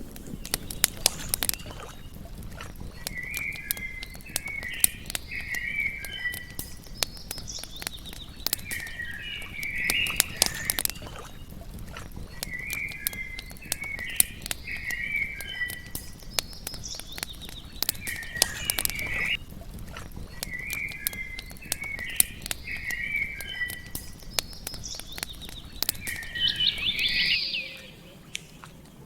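Campfire crackling with frequent sharp pops over a low rush, while an animal gives a chirping call that repeats about every four seconds. Near the end the sound drops away suddenly.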